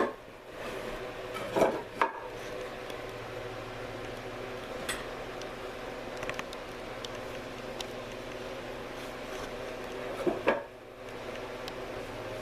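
Workshop clatter: a few sharp knocks and clanks of tools and wood, twice near the start and once near the end, over a steady low hum.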